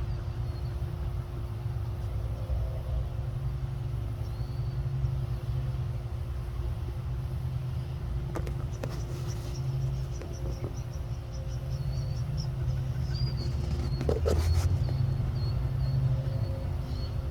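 Outdoor ambience: a steady low rumble, with a run of short, high chirps repeating through the second half and a few sharp clicks.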